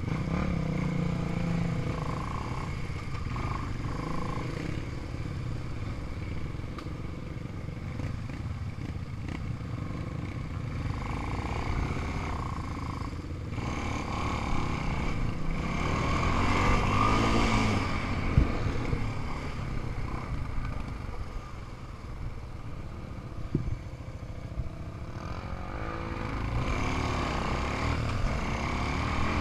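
ATV and dirt bike engines running while riding, their pitch rising and falling with the throttle, with a couple of sharp knocks along the way.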